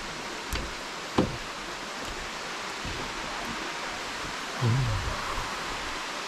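Steady rush of falling water from a waterfall, with a sharp knock about a second in and a low, dull thump near five seconds.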